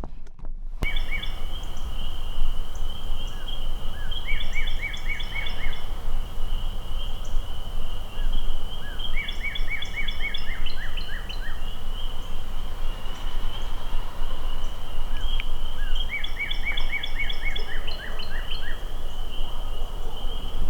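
Birds singing, one repeating a short, fast run of notes every five or six seconds, with scattered higher chirps over a steady high-pitched trill and a low rumble of wind on the microphone.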